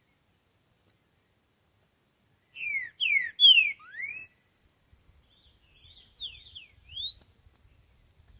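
Green-winged saltator (trinca-ferro) singing: a loud phrase of four clear whistled notes sliding down and up, starting about two and a half seconds in, then a softer run of notes ending in a rising whistle. A faint steady high-pitched hiss runs underneath.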